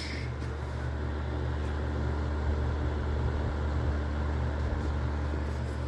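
Steady low hum of a heater running under the thermostat's control, with a faint higher tone over it.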